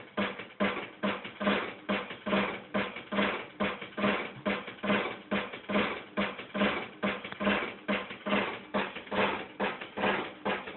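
A steady drum beat, about two to three hits a second, with a deep thump on each beat.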